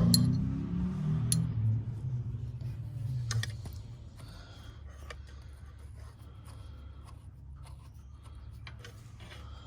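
Small metal clicks and taps of hand work on a tractor's brake pedal linkage as a pin is taken out and the adjustment backed off: a sharp click at the start, then scattered light ticks. A low rumble fades out over the first few seconds.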